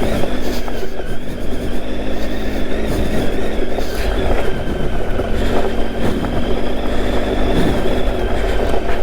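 Triumph Tiger 800's three-cylinder engine running at steady, moderate revs while the bike rides along a dirt trail, with a constant rush of ride noise over it.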